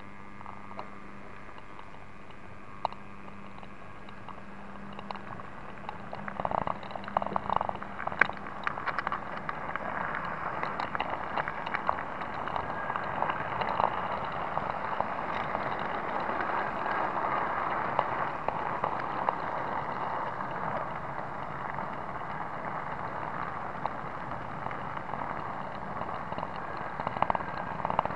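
Small 009 narrow gauge model locomotive running along its track, heard up close as a dense crackling rattle of wheels and motor. It grows louder about six seconds in, with a few sharp clicks.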